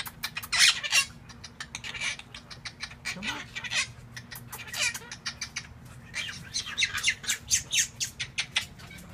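Quaker parrots (monk parakeets) chattering in a rapid stream of short, high-pitched squawks and chirps, loudest about a second in.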